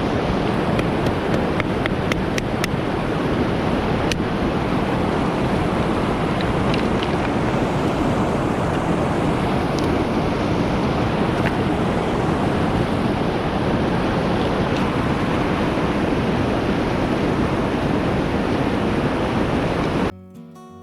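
Steady, loud rushing noise with a few sharp clicks in the first few seconds. It cuts off suddenly just before the end, where quiet guitar music begins.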